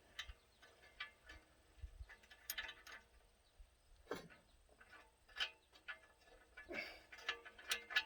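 Faint, irregular light clinks and taps of exhaust pipe and nuts being handled and fitted under a truck, a few with a short ringing tail.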